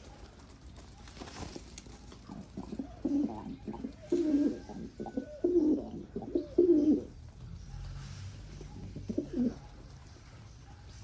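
Domestic pigeon cooing: a run of low coos from about two to seven seconds in, then a shorter coo near the end.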